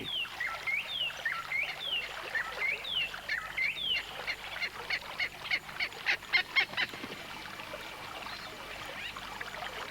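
A bird calling: a string of short, high, falling notes about one every 0.7 seconds, then a fast rattle of sharp clicking notes lasting about two seconds, which fades away near the end.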